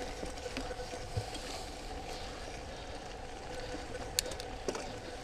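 Mountain bike rolling along a dirt trail: steady tyre and wind noise with a faint steady hum and scattered clicks and knocks, the sharpest about four seconds in.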